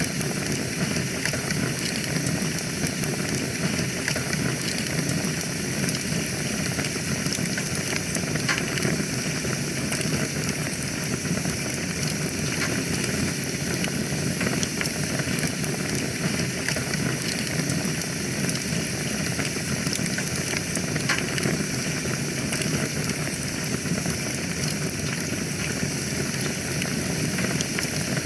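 Wood fire burning in a fireplace: a steady hiss with scattered small crackles and pops.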